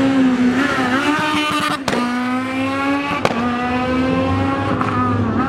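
Rally car's engine running hard on the stage, its revs wavering and then climbing as it accelerates. Two sharp cracks come about two and three and a half seconds in.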